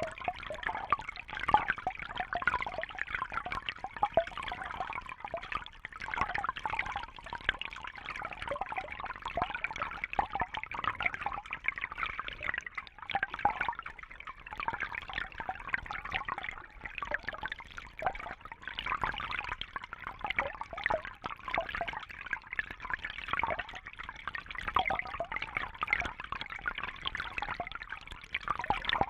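Water trickling and splashing steadily, full of small bubbling drops, with no pause or change.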